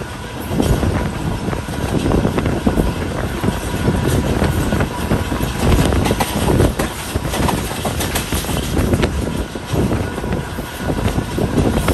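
Passenger train running along the track: a continuous loud rumble of wheels on the rails with irregular clatter and rattling.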